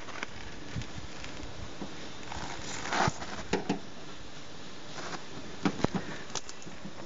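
Hand work on a foil-backed sound-deadening sheet stuck to a car door, trimmed with a knife: scattered light clicks and taps, a short rustle about three seconds in, and a few sharp clicks near the end.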